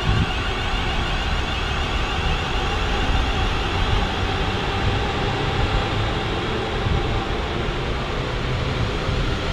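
Class 350 electric multiple unit running past along the platform: a steady rumble of wheels on the rails with a faint steady whine.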